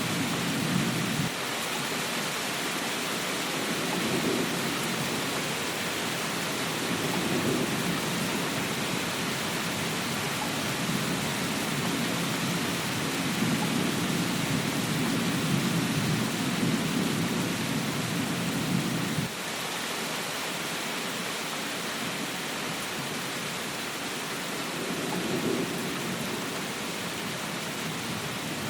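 Steady rain hiss with low rolling thunder rumbles that swell and fade several times; the longest rumble runs for about eight seconds and cuts off abruptly about two-thirds of the way through.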